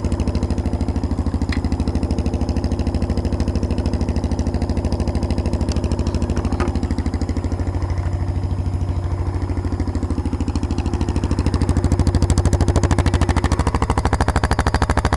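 Lawn tractor engine running on a homemade straight pipe of 1-inch pipe and couplings, no muffler: a steady, loud, even exhaust pulse at idle that gets a little louder about twelve seconds in.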